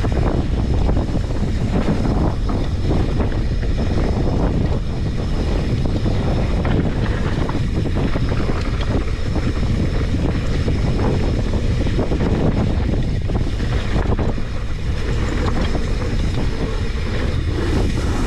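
Steady wind noise buffeting a GoPro's microphone during a fast mountain-bike descent, with the bike's rumble and many small knocks from riding over rough trail.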